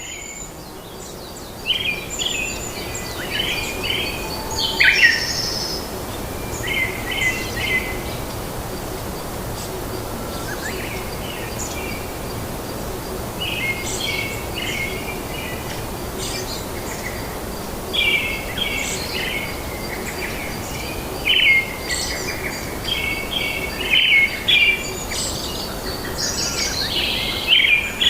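Birds singing and chirping: short trilling phrases that come again every second or two, over a steady background noise.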